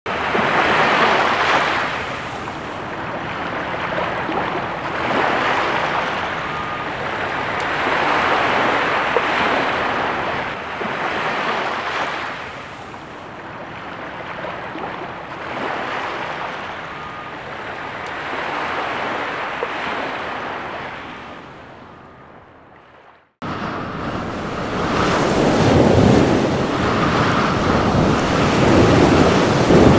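Waves washing in, with wind noise, swelling and ebbing every few seconds. The sound fades and cuts off abruptly about 23 seconds in, then a louder rush of surf and wind starts.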